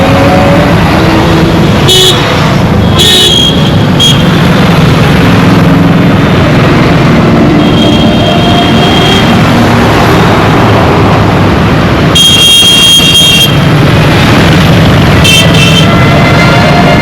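Dense road traffic: engines running in a steady rumble while vehicle horns toot again and again. There are short toots about two, three and four seconds in, a longer honk around eight seconds, the loudest and longest honk about twelve seconds in, and more toots near the end.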